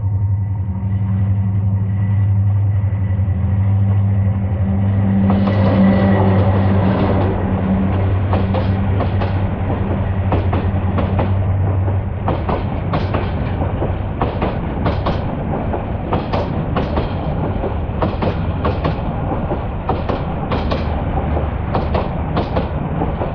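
Hyundai Rotem diesel-electric locomotive's engine running with a steady low hum as the train comes up and passes close by, loudest about six seconds in. About halfway through the hum gives way to the passenger coaches rolling past, their wheels clicking regularly over the rail joints.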